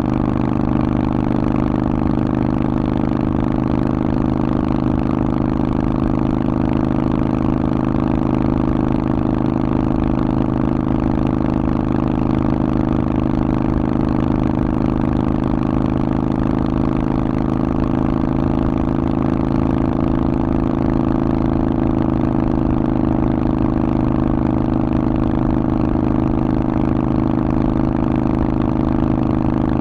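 Harley-Davidson Forty-Eight's air-cooled V-twin engine running steadily at constant revs through a Vance & Hines exhaust.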